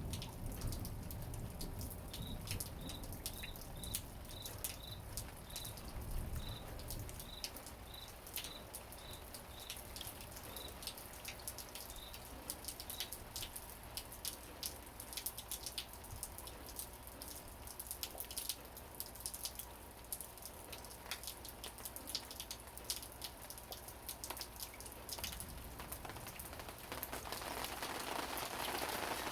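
Rain falling, with many separate drops ticking and splashing on hard surfaces; the downpour thickens into a denser hiss near the end. For the first dozen seconds a short high chirp repeats about once or twice a second.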